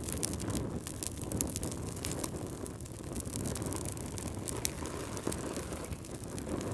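Wood fire crackling: frequent irregular sharp pops and snaps over a low, steady rumble of burning.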